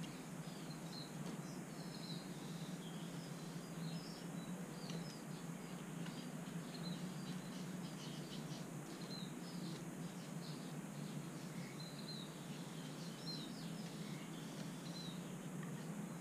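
Small birds chirping in short, high calls scattered throughout, over a steady low hum.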